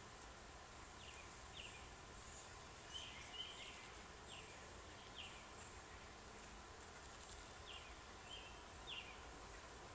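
Faint short high chirps from a small bird, about nine of them scattered irregularly, over a steady low hiss.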